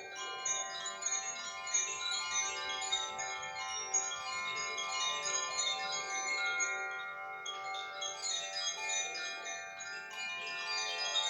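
Koshi chimes, bamboo sound boxes with silver rods struck by an inner clapper, ringing continuously: a dense shimmer of many overlapping high tinkling strikes over a bed of sustained ringing tones. The strikes thin out briefly about seven seconds in, then pick up again.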